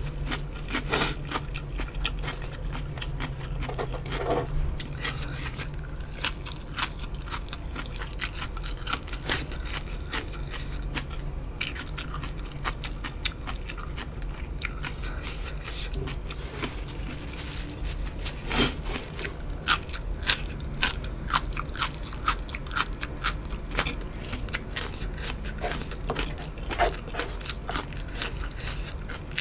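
Close-miked eating: crunchy bites and chewing of raw vegetables and chicken feet, many short, irregular crunches over a low steady hum.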